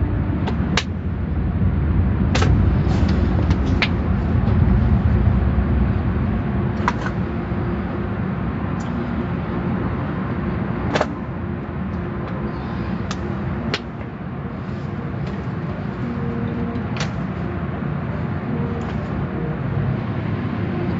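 A steady low rumble, as of a vehicle running, with scattered sharp clicks every second or two.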